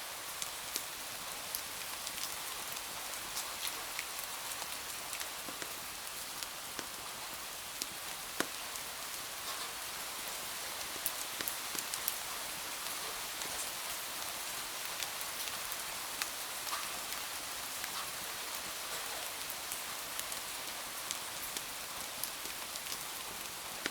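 Steady rain making an even hiss, with scattered light ticks throughout.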